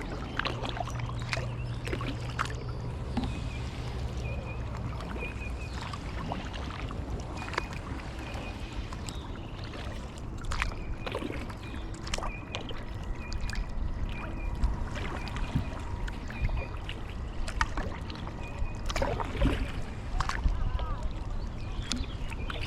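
Kayak paddling: the paddle blades splash and drip water at irregular intervals and knock lightly. A short high chirp repeats throughout.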